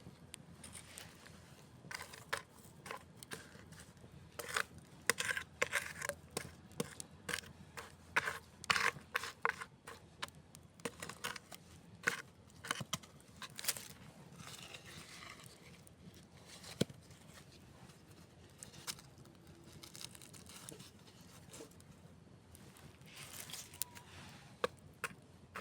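Campfire crackling, with irregular sharp pops and snaps that come thickest in the first half and again near the end.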